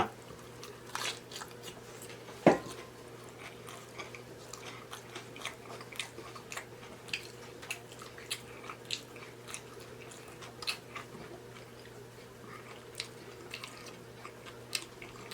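Close-miked mouth sounds of a person eating tacos: soft, scattered chewing smacks and clicks, with one louder brief sound about two and a half seconds in.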